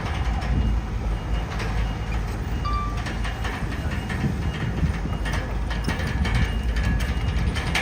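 Crawler bulldozer working: its diesel engine running with a low rumble while the steel tracks clank and rattle irregularly.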